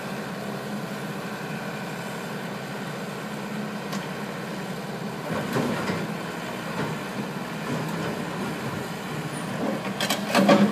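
Excavator's diesel engine running steadily, with a cluster of knocks near the end.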